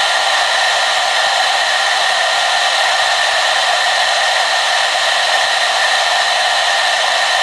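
Hair dryer blowing steadily on one setting: an even, unchanging rush of air and motor hum, with nothing in the low end.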